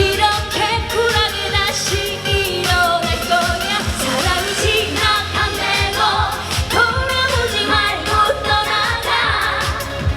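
Trot song performed live: a woman's singing voice with vibrato over a backing track with a steady beat.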